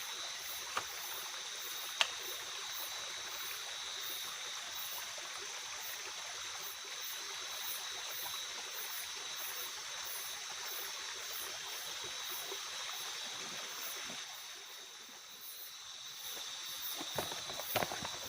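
Night forest ambience: a steady watery hiss, with insects trilling at two steady high pitches and a rapid pulsing chirp above them. A couple of sharp clicks come in the first two seconds, and rustling, crackling noises start near the end.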